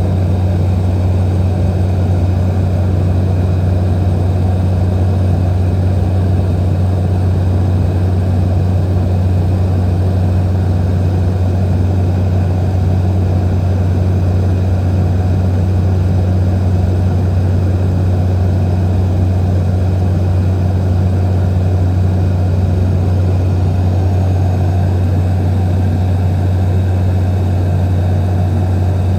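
A small propeller airplane's engine running steadily: a loud, unbroken low hum.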